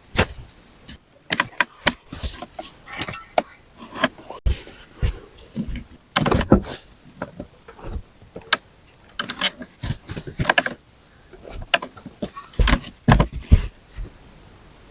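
Irregular series of sharp knocks, clicks and clatters with rustling between them, as of materials being handled and knocked together during hands-on work.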